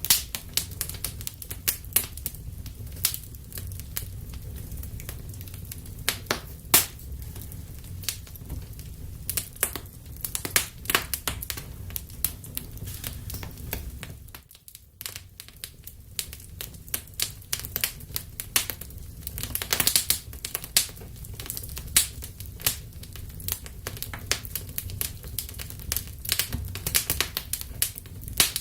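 Wood fire burning in a fireplace: steady low rumble of the flames with frequent irregular crackles and sharp pops, briefly quieter about halfway through.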